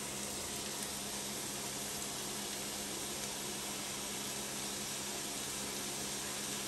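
Diced vegetables sizzling in butter in a hot cast iron skillet, a steady even hiss, with a faint steady low hum underneath.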